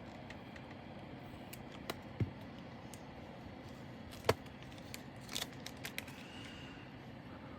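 Scattered light clicks and taps of small plastic bags and containers of diamond painting drills being handled, the sharpest about four seconds in and a few quick ones a second later.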